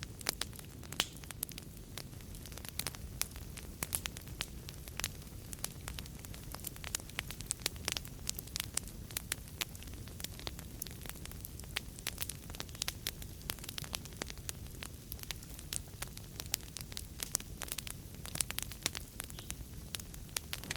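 Wood fire crackling, with many sharp irregular pops and snaps over a low steady rumble of the flames.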